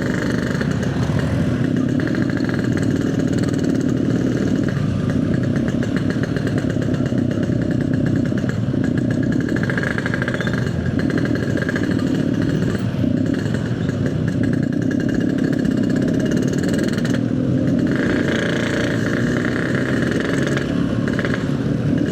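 Yamaha RX-King's single-cylinder two-stroke engine running steadily while the motorcycle is ridden along.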